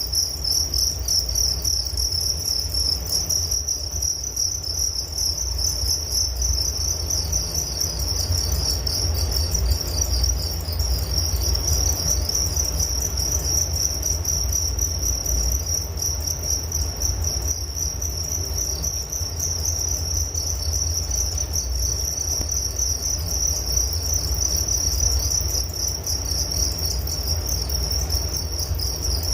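Crickets trilling continuously in a rapid, unbroken high-pitched chorus, with a low steady rumble underneath.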